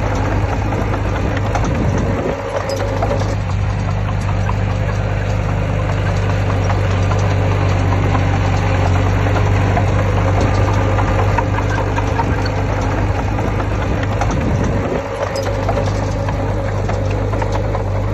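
Heavy construction machine's diesel engine running steadily with a rattle, its low hum dipping briefly twice, about two seconds in and near the end.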